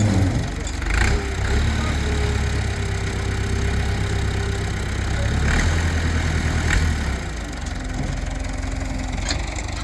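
A farm machine's engine running steadily with a low rumble, with a few sharp clicks or knocks over it.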